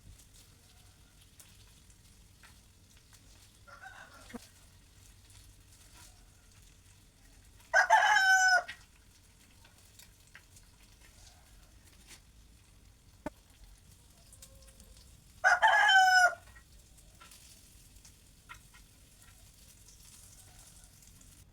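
Rooster crowing twice, about eight seconds apart, each crow about a second long, with a fainter call a few seconds before the first.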